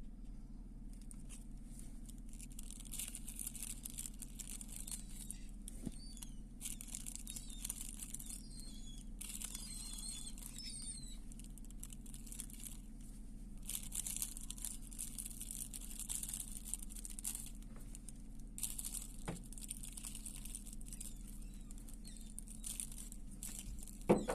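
Faint, uneven crackling and rustling noise in patches over a steady low hum, with a short sharp knock just before the end.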